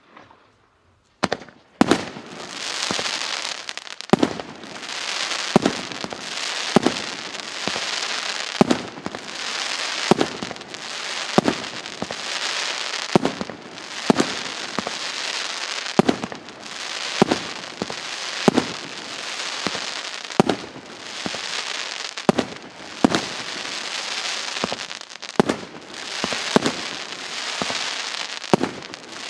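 A 51-shot, 2-inch fireworks cake firing, its shots going off about once a second from about a second in. Each shot is a sharp report, with a dense hissing, crackling wash from the bursting shells between them.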